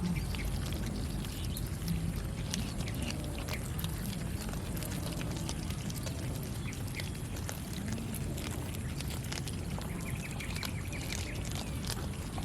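Cats eating raw fish: many short, sharp chewing and smacking clicks, with a brief low animal grumble about 8 seconds in and a faint higher call near the end.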